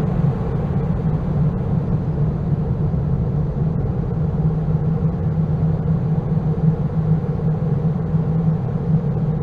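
Loud, steady low rumbling drone with a strong low hum and a fainter, higher hum above it, unchanging throughout: a sustained layer of an experimental ambient noise composition.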